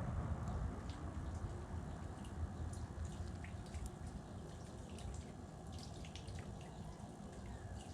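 Outdoor ambience of light water dripping over a steady low rumble, with scattered faint short high ticks.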